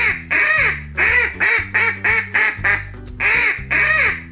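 Duck quacking in a rapid series of short quacks, with a brief pause about three seconds in, over background music.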